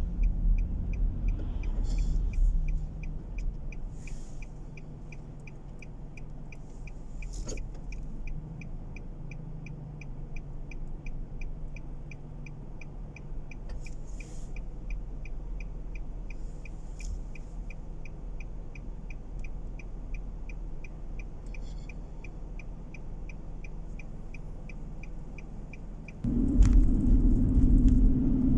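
Car engine idling with a rapid, even ticking from the turn-signal indicator. About 26 seconds in the ticking stops and the engine note rises sharply as the car pulls away.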